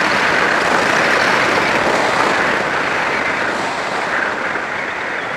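Steady rush of wind and road noise from a Yamaha FZ6 sportbike cruising at highway speed, with the engine running underneath.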